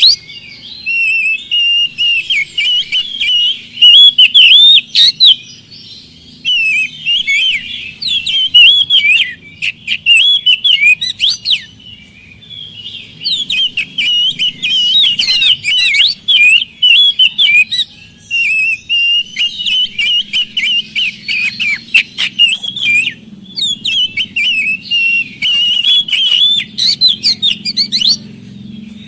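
Oriental magpie-robin (kacer) in full song: loud, rapid, varied whistles and chattering phrases in long bursts, with a few brief pauses, over a faint low hum.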